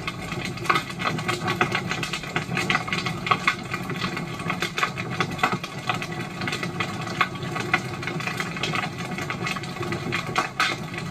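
Wood fire burning, with frequent sharp crackles and pops over a steady low drone.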